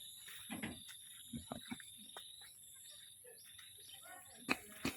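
Crickets chirping: a steady, faint, high-pitched trill, with scattered soft knocks and two sharper clicks near the end.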